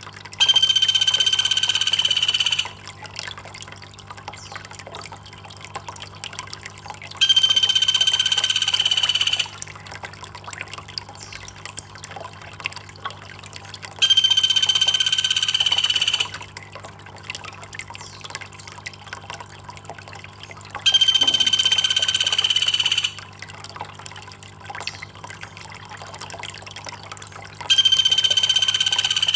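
Trickling, dripping water runs steadily under a looped high-pitched call. The call is held at one steady pitch for about two seconds and comes back five times, about every seven seconds.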